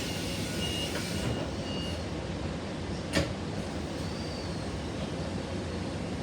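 Suburban commuter train at the station: a steady rumble, with short high beeps repeating in the first two seconds and a sharp click about three seconds in.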